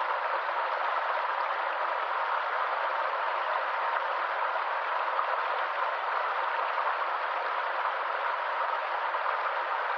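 Running water of a stream: a steady, even rush with no breaks or changes.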